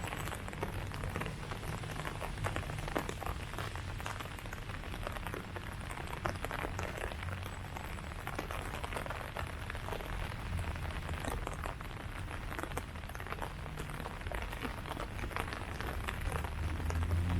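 Steady rain falling on leaves, a dense patter of many individual drops, with a low rumble underneath.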